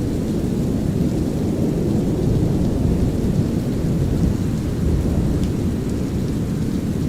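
Synthetic brown noise mixed with a light rain ambience and the low rumble of distant thunder, a steady deep hiss with faint scattered raindrop ticks above it.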